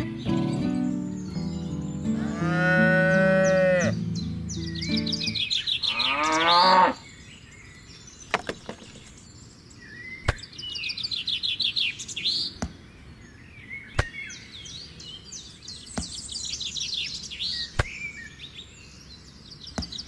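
Cattle mooing, loud and drawn-out, in the first seven seconds, then birds chirping with a few sharp clicks.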